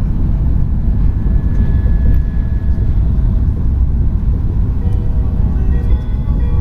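Tohoku Shinkansen train running at speed, heard from inside the passenger cabin as a steady low rumble. About five seconds in, a melodic chime begins over it, of the kind the onboard announcement system plays.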